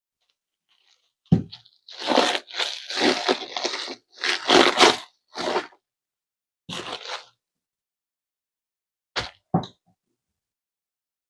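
Handling noises in the kitchen: irregular bursts of crinkling and scraping over several seconds, then two quick knocks near the end.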